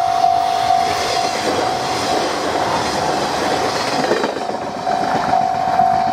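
A Japanese level-crossing alarm ringing its steady electronic 'kan-kan' tone about twice a second while a Kiha 58-series diesel railcar passes, its rolling and rail-joint clatter swelling up over the bell about a second in and fading again near the end.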